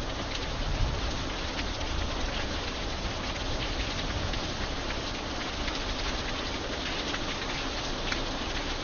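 Steady rain falling on an iron bridge: a constant hiss with many sharp single drops striking through it.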